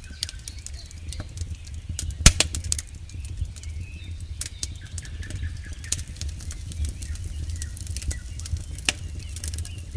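Campfire crackling: a steady run of sharp pops and snaps from burning wood over a low, even rumble of the flames. The loudest, sharpest pop comes a little over two seconds in.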